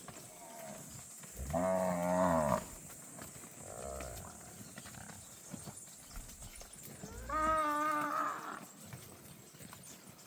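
Cattle mooing: two loud, long moos with a wavering pitch, about a second and a half and seven seconds in, and a fainter one between them.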